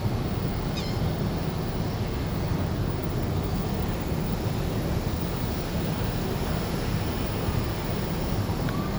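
Steady rush of wind and sea with a constant low rumble, as heard aboard a moving cruise ship.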